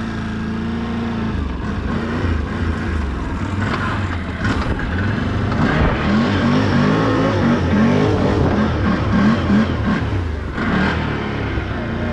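Can-Am off-road vehicle's engine pushing through mud and standing water in two-wheel drive: running steadily at first, then revving up and down repeatedly in the second half.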